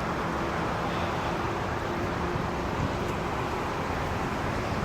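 Strong wind rushing in a storm: a steady, even noise with a faint low hum underneath.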